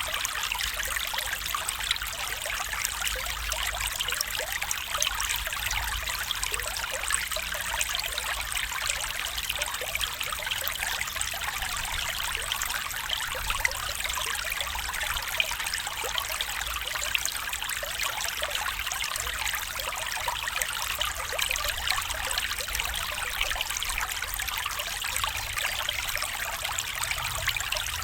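Stream water trickling and babbling steadily over stones, an even splashing with no change.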